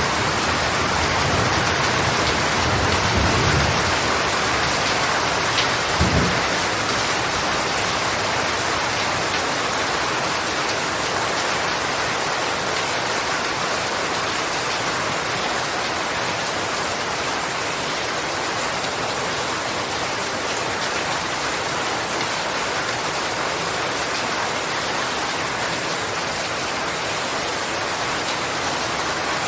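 Steady heavy rainfall hissing evenly. A low rumble sits under it for the first few seconds, and a brief low thump comes about six seconds in.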